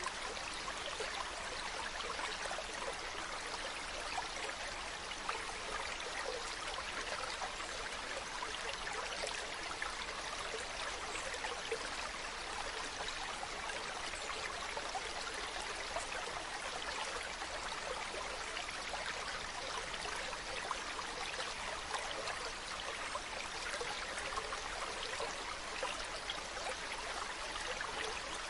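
Stream water running, a steady, even rushing and babbling.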